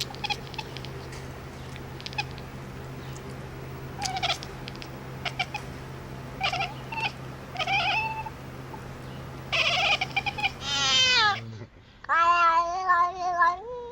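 Cat meowing: a run of short meows, a long falling meow about ten seconds in, then a longer wavering meow near the end. A steady low hum runs under the first part and stops about eleven seconds in.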